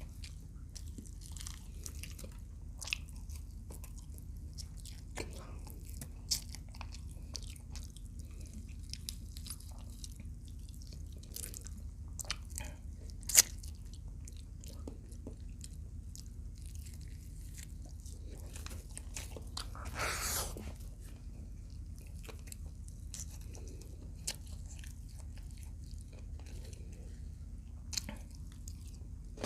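Close-miked chewing and biting of fried adobo quail, with scattered sharp crunches. The loudest crunch comes about 13 seconds in, and there is a longer rustling crunch a little after 20 seconds.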